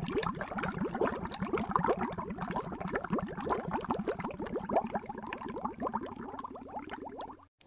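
Liquid bubbling: a dense, rapid run of small rising bubble blips that stops abruptly near the end.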